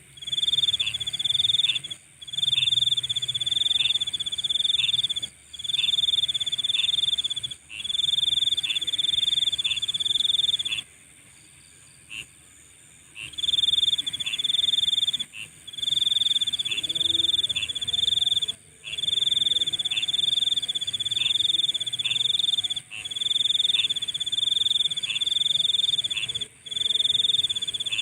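Night insects: one loud, shrill trilling call in bursts of a second or two with short breaks, pausing for about two seconds near the middle, over a steady very high-pitched chorus of other insects.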